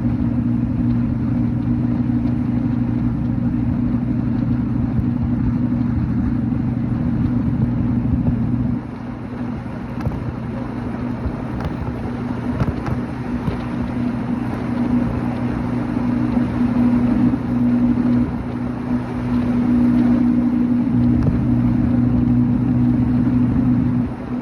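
Motorcycle engine running at a steady cruising speed with road and wind noise. The engine note falls away about nine seconds in as the throttle eases off, then picks up again and holds steady near the end.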